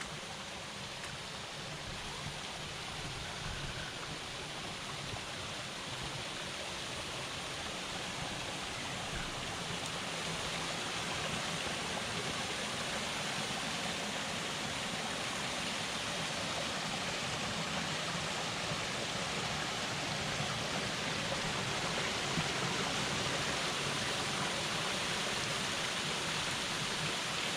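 Water rushing at a partly frozen waterfall, a steady rush that grows gradually louder.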